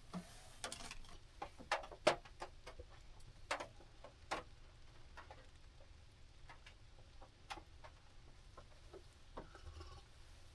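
Scattered, irregular light ticks and taps at an uneven pace, a few of them louder in the first half, over a faint steady background.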